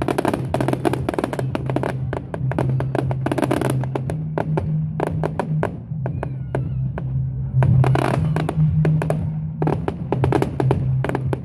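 Fireworks going off in quick succession: many sharp bangs and crackles, denser near the start and again about two thirds in, with a few faint whistles in between. A steady low tone that steps between pitches runs underneath.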